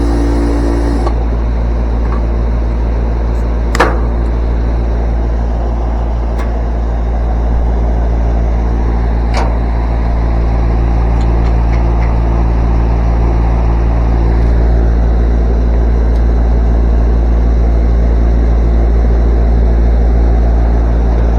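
Outdoor air-conditioning condenser fan motor running with a steady low electrical hum, while the compressor sounds like it is not running. There are two sharp metallic clicks, about four seconds and about nine seconds in.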